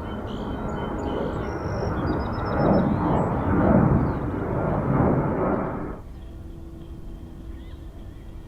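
Jet airliner engine noise, building and swelling over a few seconds, then cutting off abruptly about six seconds in.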